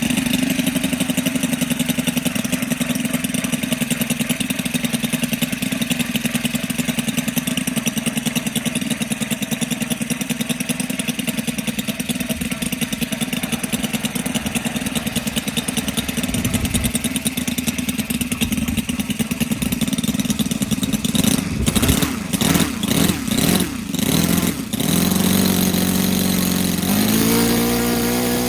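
Saito FA-182 twin-cylinder four-stroke model aircraft engine, converted to CDI spark ignition, running through a twin-into-one exhaust. It idles steadily for about twenty seconds. Then it is revved up and down several times and held at a higher speed near the end.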